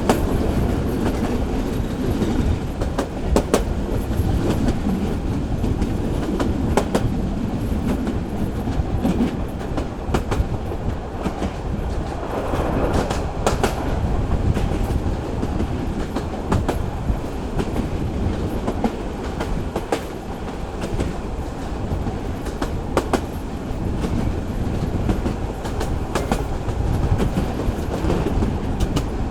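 Local passenger train running along the track: a steady low rumble of the wheels on the rails, with a clickety-clack as they pass rail joints every few seconds.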